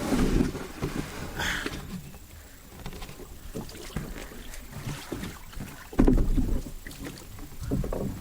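A canoe knocking and bumping as people handle it and get in, with irregular light knocks and a heavy low thud about six seconds in and another near the end.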